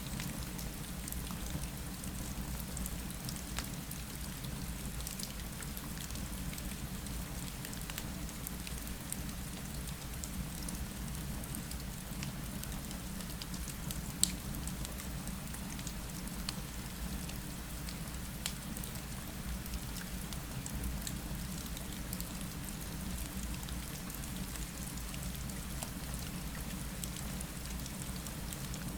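Steady rain falling against a window over a low rumble, mixed with a fireplace. Scattered small ticks and pops run through it, one sharper pop about halfway through.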